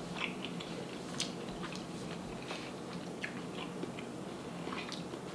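Close-miked chewing: scattered soft, wet mouth clicks and crackles from someone eating a seafood boil.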